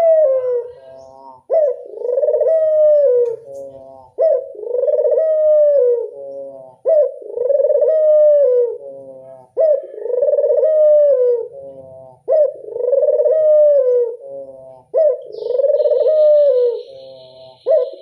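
Puter dove (Barbary dove) giving its cooing call, the classic 'angungan': a short sharp note followed by a long drawn-out coo that falls at the end, repeated regularly about every two and a half to three seconds, seven times. A faint steady high whine comes in near the end.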